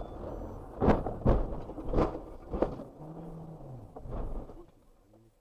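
Car crash: a run of heavy thumps and knocks, about four in two seconds, as vehicles strike and settle, then a short low falling tone. The sound cuts off about five seconds in.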